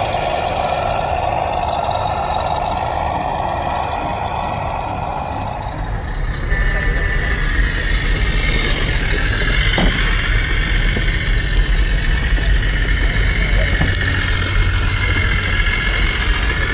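Truck engine running. About six seconds in it grows louder and deeper, with a whine that rises in pitch.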